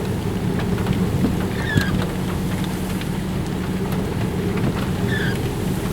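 Strong storm wind from a tornado-producing supercell blowing across the microphone, a steady low rumble. Two faint short high chirps come through it, about two seconds and five seconds in.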